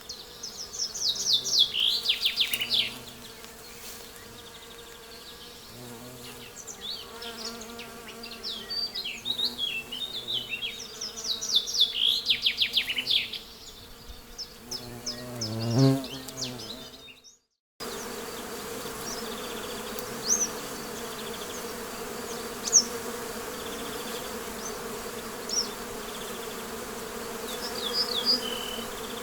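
Bees buzzing in a steady, many-voiced hum. Over it a songbird sings two loud bouts of fast, descending trilled phrases, and one bee passes close with a loud rising buzz about halfway through. After a brief cut the hum goes on with a few short chirps.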